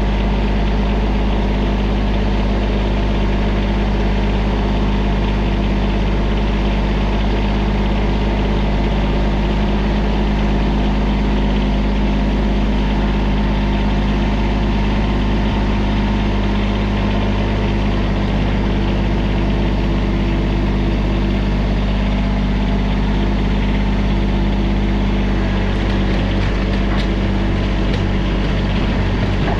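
Diesel engine of a TYM compact tractor-backhoe running steadily at a constant speed.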